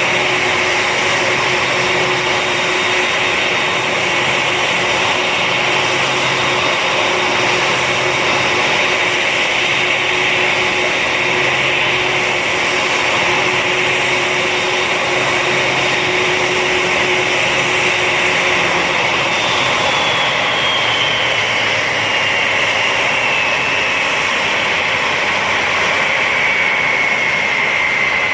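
Jet aircraft engine noise: a steady, loud rush with a constant hum underneath. About two-thirds of the way through the hum drops out and a high whine slowly falls in pitch.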